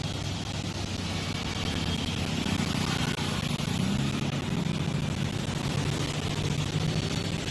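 Motor vehicle engines running in street traffic, a steady low engine hum under an even wash of street noise.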